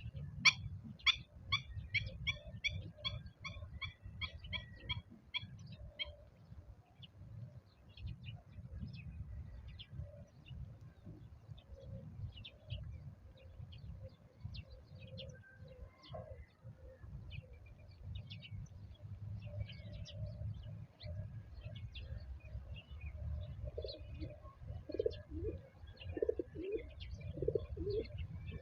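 Small birds chirping, with a fast, evenly spaced run of high chirps over the first six seconds and then scattered chirps. Near the end a dove coos in a series of low repeated notes. A low rumble runs underneath.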